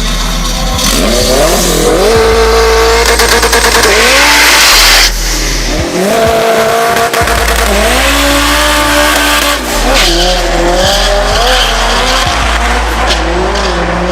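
Turbocharged Honda Civic drag car, its engine revving hard with its tires squealing, in loud surges of rising then held pitch. The sound breaks off about five seconds in and picks up again about a second later.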